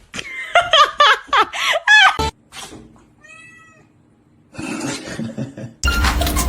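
A cat yowling in a quick string of about seven short calls that bend up and down in pitch, then a pause and a brief burst of noise; music starts near the end.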